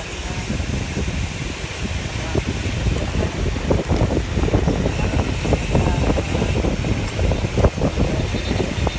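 Wind buffeting the microphone of a camera on a moving road bicycle: a steady rushing rumble with irregular gusts that grow stronger a couple of seconds in.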